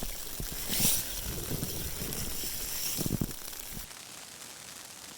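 Snow-swollen river rushing, carrying chunks of broken ice: a steady hiss of running water with a few low knocks. The hiss drops abruptly to a fainter one about four seconds in.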